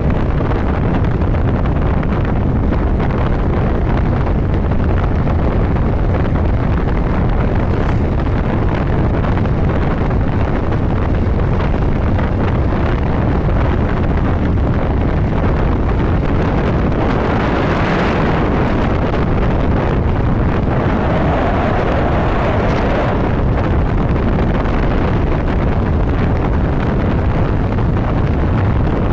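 Steady rush of wind buffeting the microphone on a moving motorcycle at road speed, with the bike running underneath. About two-thirds of the way through the noise briefly swells louder.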